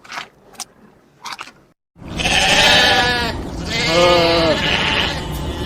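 Bleating: after a few faint short sounds and a cut, long wavering bleats follow one after another from about two seconds in, loud and continuing to the end.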